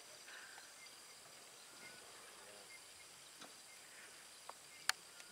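Quiet bush ambience: a faint steady high insect drone with a few faint short bird chirps, and one sharp click near the end.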